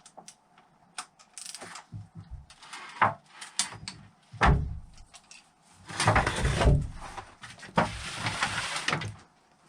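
Hand tools tightening bolts on a Honda XL600 engine to torque: a string of sharp metal clicks and knocks, with two longer rasping bursts about six and eight seconds in.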